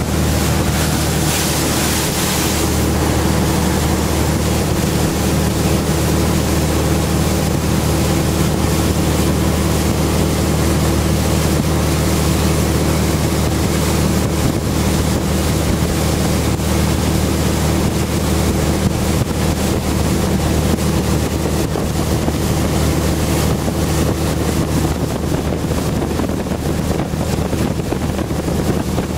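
A boat engine running at a steady pitch, heard from aboard a moving boat, with wind noise on the microphone and water rushing past the hull.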